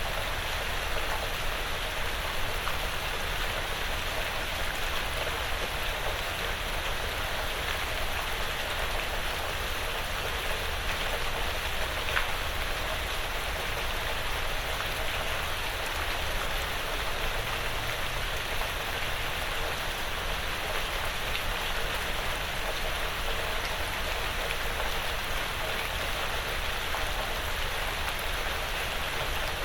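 Steady light rain pattering on a porch roof and the surrounding woods.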